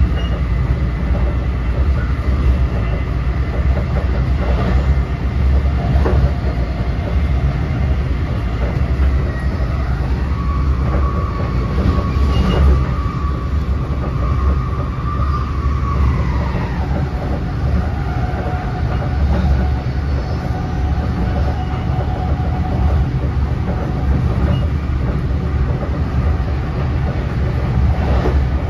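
Interior ride noise of an NJ Transit Multilevel passenger coach at speed: a steady low rumble of wheels on rail with a few light clicks. In the middle a faint whine holds steady for several seconds, then drops in pitch.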